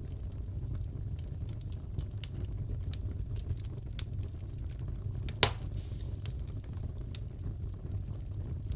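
Wood fire crackling in a fireplace: scattered small snaps and ticks over a steady low rumble, with one louder pop about halfway through.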